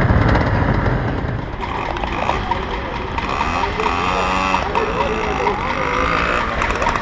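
Old motorcycle and moped engines running, with a heavy low rumble at first, then lighter running with a regular ticking alongside people talking.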